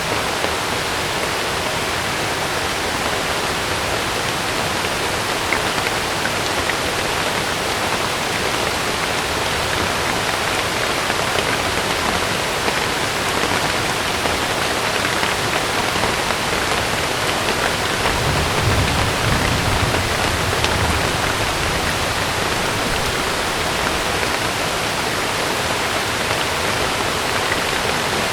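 Heavy rain falling steadily on a camping tent's fabric. A low rumble swells for a few seconds about two-thirds of the way through.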